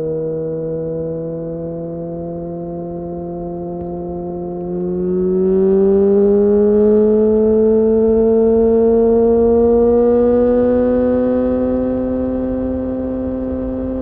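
Yamaha FZ6N's inline-four engine through a Two Brothers exhaust while riding, a steady engine note. About five seconds in the revs climb gradually, then hold.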